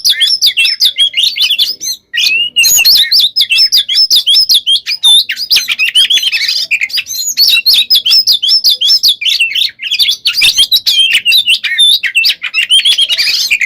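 Oriental magpie-robin (kacer) singing nonstop in full form: a dense, fast run of varied whistles, chirps and trills packed with fill-in phrases, with a brief break about two seconds in.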